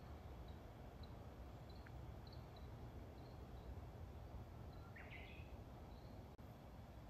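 Faint bird chirps: a string of short, high chirps, then one louder call about five seconds in, over a low, steady background rumble.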